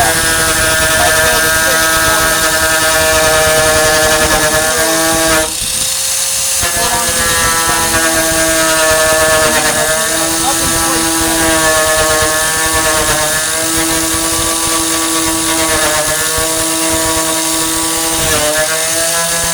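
Angle grinder with a thin cutting disc running at high speed and cutting the tailgate's sheet metal. It is a steady whine whose pitch sags each time the disc bites in under load, with a short break about five seconds in.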